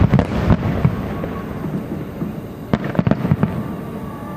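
Aerial fireworks shells bursting: a quick cluster of sharp bangs at the start, a rolling rumble, then another cluster of bangs about three seconds in.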